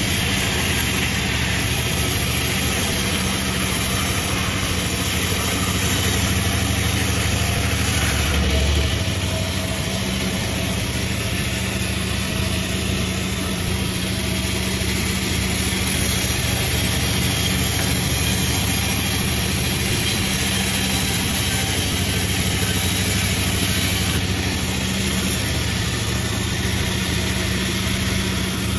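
Multi-blade sawmill running steadily: a low motor hum under a constant high hiss, a little quieter from about eight seconds in.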